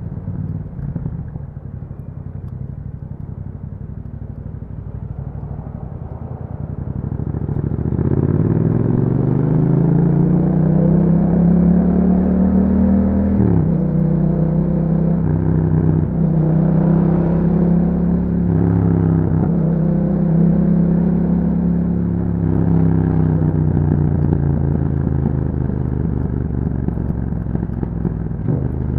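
Yamaha MT-07 parallel-twin engine through an Akrapovic exhaust, running low and steady at first, then accelerating with a rising note from about a quarter of the way in. The pitch drops briefly at a few upshifts, then settles into steady cruising.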